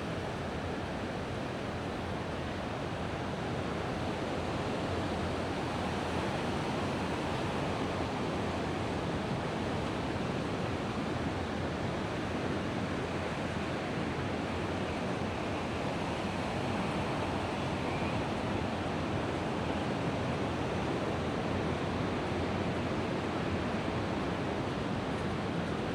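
Mediterranean surf washing onto the beach, a steady, unbroken rush of breaking waves.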